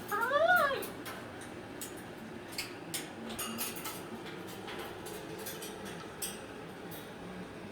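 A cockatoo gives one short call that rises then falls in pitch, then there are scattered light clicks and taps.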